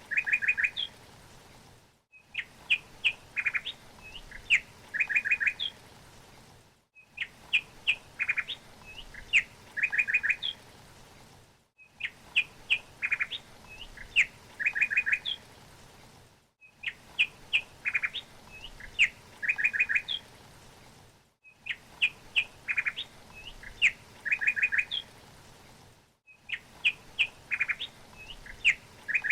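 Small songbird chirping in quick clusters of short, high chirps. A short recording loops about every five seconds, with a brief dropout between repeats.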